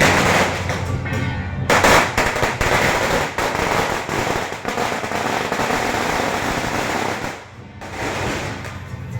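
A string of firecrackers going off in a rapid, continuous crackle, with a brief break about a second and a half in, dying down near the end.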